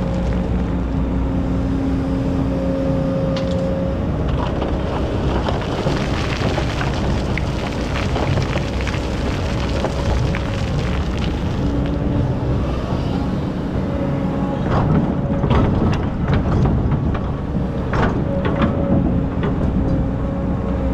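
Excavator's diesel engine running steadily under load, its hum and hydraulic whine shifting in pitch as the machine works. In the second half there is a run of sharp clanks and rattles.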